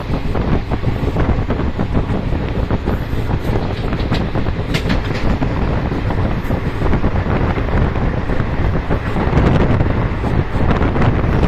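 Moving train heard from on board: steady rumbling running noise with frequent small clicks and rattles from the wheels and carriage, and wind on the microphone.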